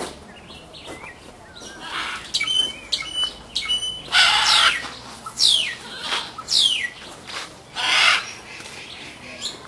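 Birds calling: a few short calls, then a harsh squawk about four seconds in and another about eight seconds in, with three quick falling whistles between them.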